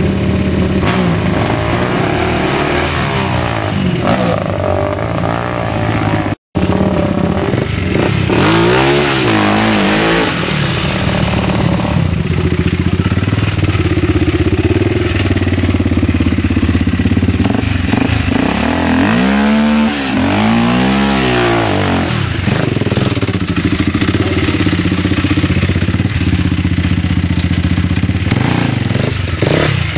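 Vehicle engine running steadily, revving up and back down about nine seconds in and twice more, back to back, about two-thirds of the way through. The sound drops out completely for a split second about six seconds in.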